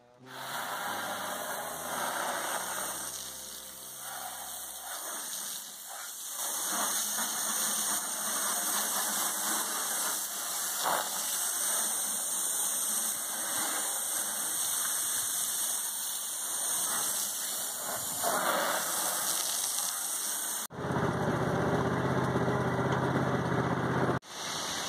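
Small four-stroke portable generator engine running steadily. About 21 seconds in the sound changes abruptly to a lower, steadier hum, and it changes again shortly before the end.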